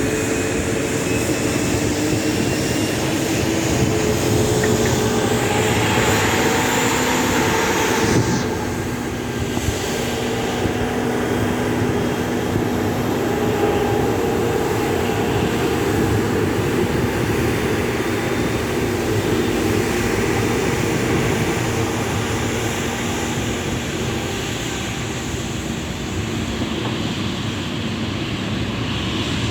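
Jet aircraft engines running steadily with a whining hum. A louder rushing swells and then drops away sharply about eight seconds in, as a low tone falls in pitch.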